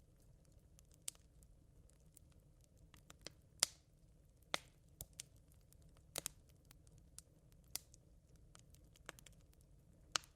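Glowing campfire embers crackling: scattered sharp pops and snaps at uneven intervals, the loudest about three and a half seconds in, over a low steady hiss.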